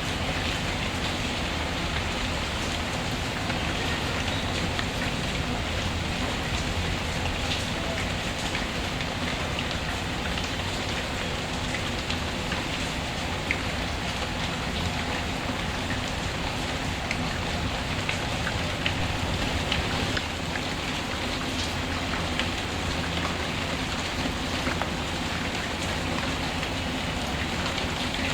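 Steady rain falling without a pause, with scattered small crackles from a wood fire in a fireplace.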